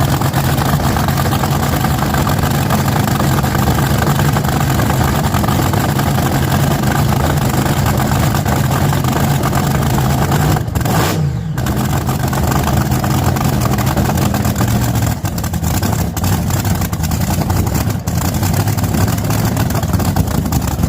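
Drag car engine running loudly at a steady idle, with a brief dip and wobble in the sound a little past halfway and a few short dips near the end.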